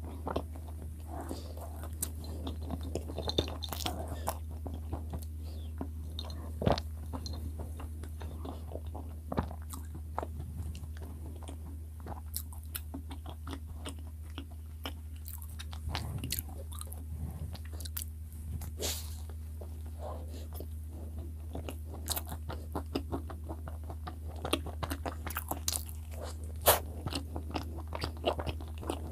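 Close-miked chewing of soft cream-filled bread: wet mouth sounds with sharp clicks and smacks now and then, over a steady low hum.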